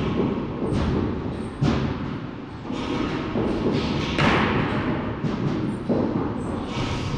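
Repeated thuds of baseballs being hit or caught during practice, irregularly about once a second over steady background noise, the loudest about four seconds in.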